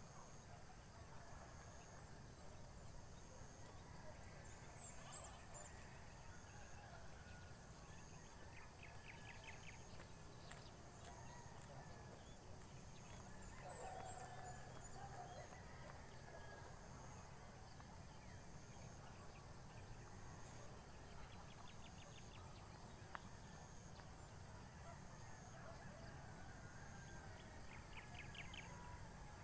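Near silence: faint outdoor ambience with a low steady hum and scattered distant bird calls, among them short rapid trills and a brief call about halfway through.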